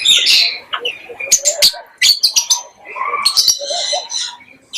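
Birds chirping and calling in many short, high notes that come in irregular clusters.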